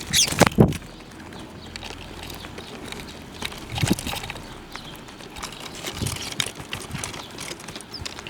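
Birds at a feeding spot: a few irregular sharp taps, loudest in the first second, with short high chirps.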